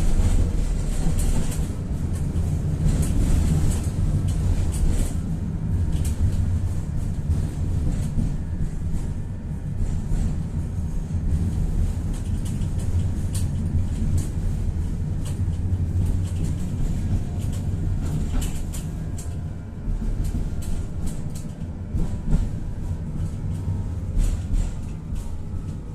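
Tatra-Yug K1M tram running along the track, heard from inside the car: a steady low rumble of the wheels on the rails with irregular clicks and knocks, and a faint gliding whine in the second half.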